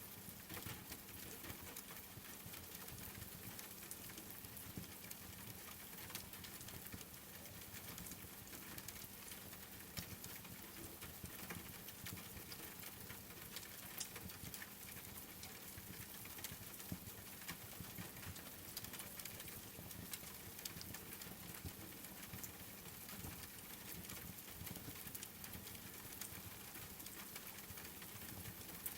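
Steady rain with a wood fire crackling: an even, quiet hiss dotted with frequent small sharp pops.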